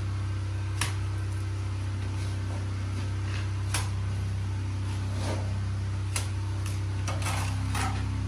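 Scattered light knocks, clicks and a longer scrape near the end from block-wall building work, over a steady low hum.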